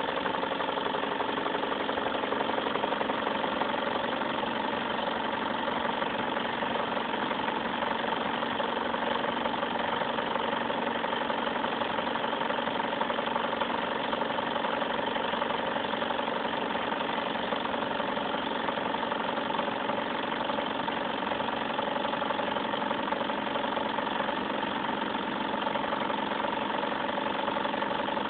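Stirling engine running steadily at a constant speed, an even mechanical whir with a fast, regular rhythm and some fixed steady tones.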